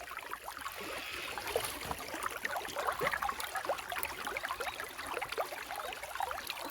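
Running river water gurgling and trickling, a steady dense patter of small bubbling sounds.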